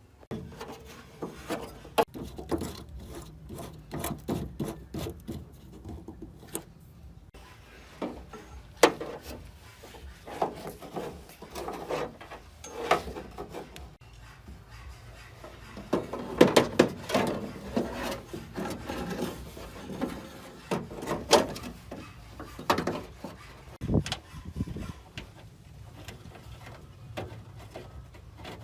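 Hand work on a car wing panel: irregular rubbing and scraping strokes with scattered sharp clicks and knocks, busiest in the middle.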